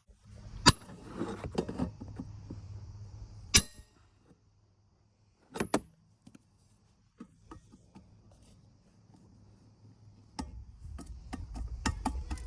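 Sharp metallic clanks and knocks from tools on a pit bike's exhaust muffler, a few separate strikes, then near the end a fast, even run of taps.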